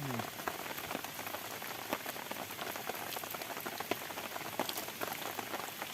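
Rain falling steadily, a dense even patter of many small drops striking a surface.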